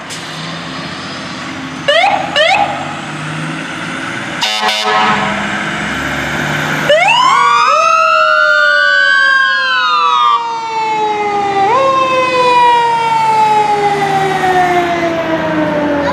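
Emergency-vehicle siren on a passing fire truck. It gives two short rising yelps and a short horn blast, then winds up to a high pitch, slowly falls, jumps back up once and falls away again, over the rumble of the truck's engine.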